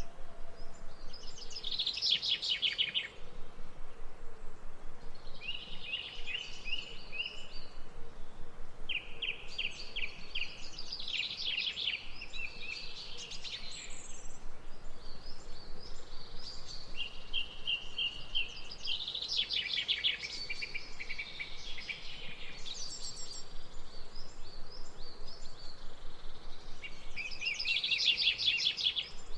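Birds singing: repeated short bursts of fast chirping trills, a new phrase every second or two, over a steady background hiss.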